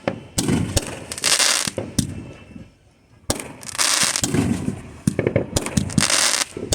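Fireworks going off: sharp bangs each followed by a crackling hiss, with a short lull near the middle before more bangs and crackle.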